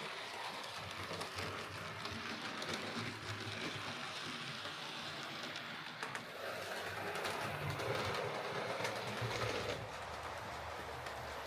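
Hornby R3639 streamlined Princess Coronation Class OO gauge model locomotive running along a model railway track, a steady running noise with scattered light clicks from the wheels on the rails. It gets louder for a few seconds past the middle, then drops back.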